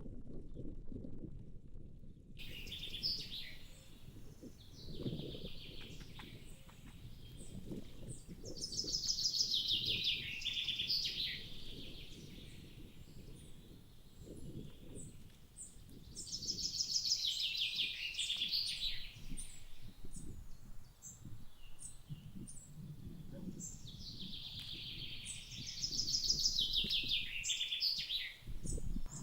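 A songbird singing a phrase of fast, trilled notes three times, about eight seconds apart, over low rustling and soft knocks.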